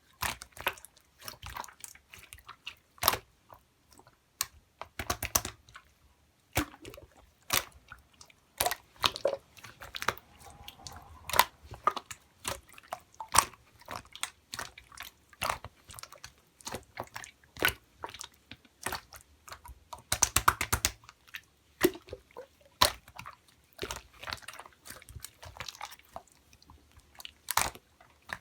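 Hands squishing, poking and stretching pearl marbled slime, making irregular sticky clicks and small pops, with a dense run of clicks about two-thirds of the way through.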